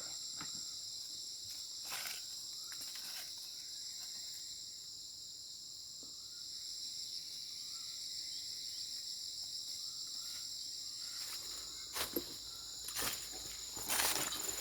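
A steady, high chorus of insects chirring in the forest, with a few short knocks and clicks scattered through it that come more often and louder near the end.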